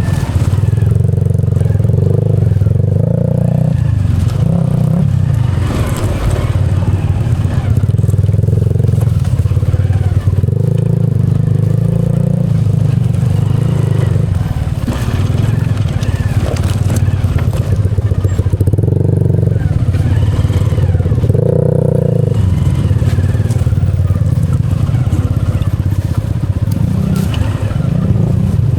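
Single-cylinder engine of a Hero Impulse trail motorcycle, revving up and down in repeated surges under load on a hill climb. Crunching from the tyres on loose rock runs underneath.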